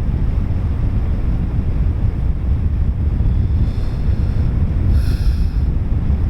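Strong wind buffeting the microphone in flight under a paraglider, a steady low rumbling rush, with a faint, brief higher-pitched sound about five seconds in.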